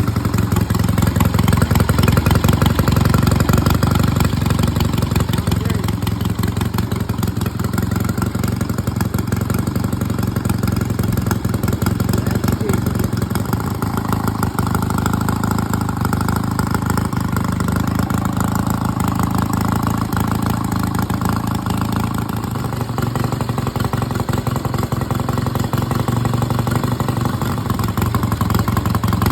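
1965 Triumph Bonneville's 650 cc parallel-twin engine idling steadily.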